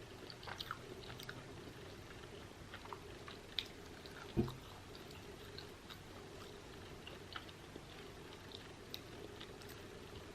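Close-up chewing of a crunchy battered corn dog: faint scattered crunchy clicks and smacks, with one louder thump about four and a half seconds in.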